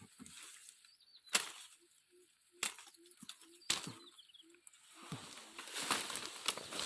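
Three sharp cracks about a second apart, like wood being chopped or snapped, over a run of short low calls. A rustling of brush builds near the end.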